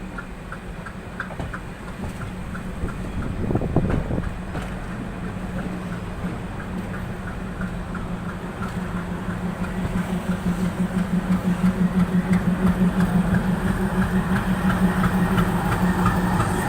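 Diesel train running: a steady low engine hum with regular clicking, growing louder and pulsing rhythmically in the second half.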